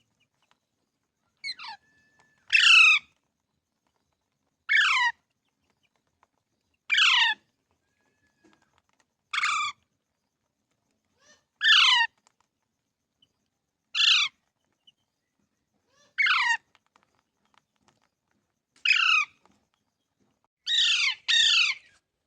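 A rose-ringed (Indian ringneck) parakeet giving loud, harsh screeching calls, about ten of them, one roughly every two seconds. Each call drops sharply in pitch, and the last is a quick double.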